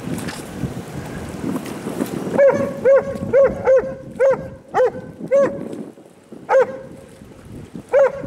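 A dog barking, about nine short, sharp barks in an irregular run that starts a couple of seconds in, over wind noise on the microphone.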